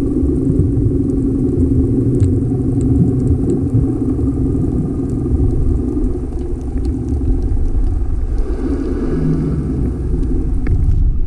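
Tour boat's engine running steadily under way, a low, even drone.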